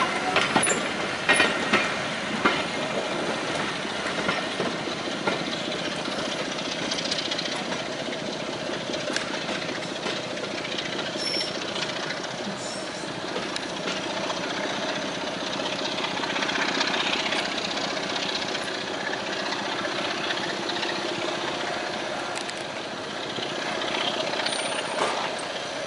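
A diesel-hauled heritage train departing behind Class 25 D5185, rolling by with a steady running rattle of coaches on the track. Sharp clacks of wheels over rail joints come in the first couple of seconds.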